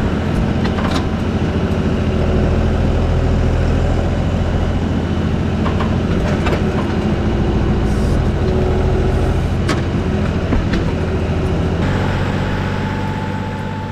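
A vehicle engine running steadily with a low drone, with a few sharp knocks or rattles over it.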